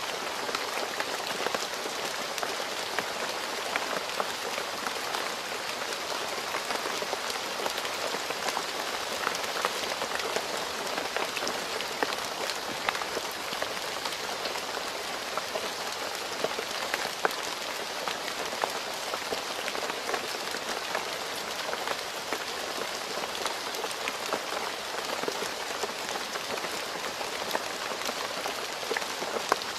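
Steady rain falling on a road, a constant hiss thick with the patter of individual drops.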